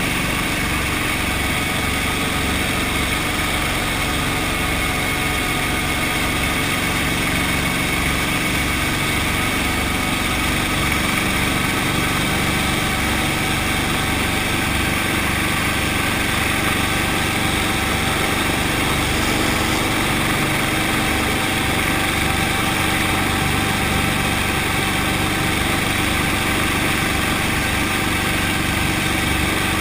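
Brantly B2B helicopter's piston engine and rotors running steadily, a constant drone with a fast low throb underneath.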